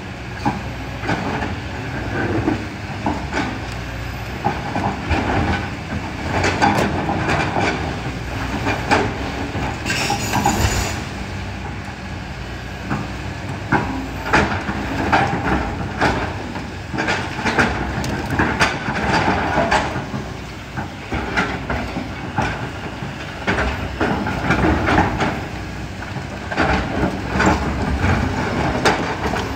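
Kobelco excavator working in sand, gravel and rocks: the diesel engine running steadily under load while the bucket and stones clank and knock irregularly, with a brief hiss about ten seconds in.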